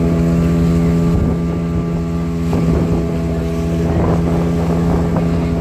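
Motorboat engine running steadily at one even pitch, with wind noise.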